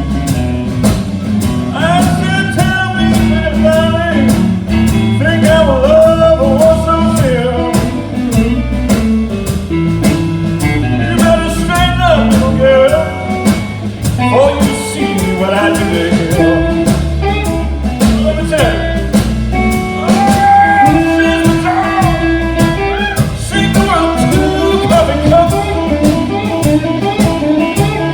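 Live blues music: a harmonica plays a solo with bent, sliding notes over guitar accompaniment and a steady beat.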